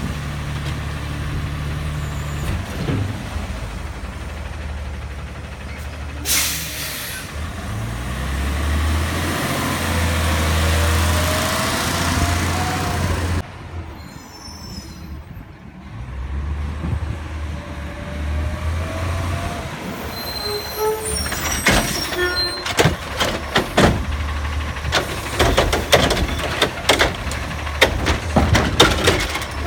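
Autocar ACX garbage truck engine running under hydraulic load, with an air brake hiss about six seconds in and a rising whine as the engine revs. In the last third, a run of bangs and clatters from the Curotto Can arm and bins.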